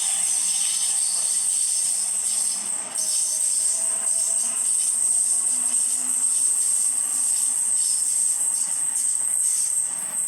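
Sydney Trains electric suburban train moving at a station platform, with a steady high-pitched whine or squeal throughout and fainter lower tones in the middle.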